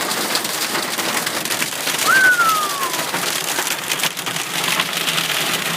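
Marble-sized hail hitting a car's roof and glass, heard from inside the car: a dense, continuous clatter of small impacts. About two seconds in, a brief tone glides down.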